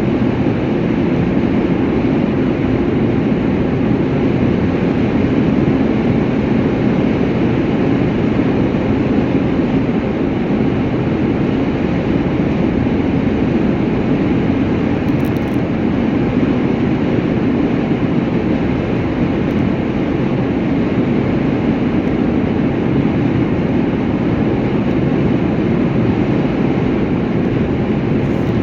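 Steady, unchanging drone and rumble of a vehicle travelling along the road: engine and tyre noise.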